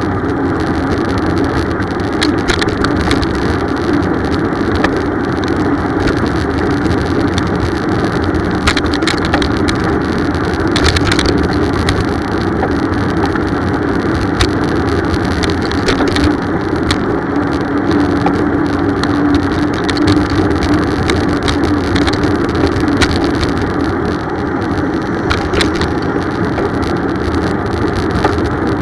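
Riding noise from a bicycle on the move: a steady rushing rumble with scattered clicks and rattles.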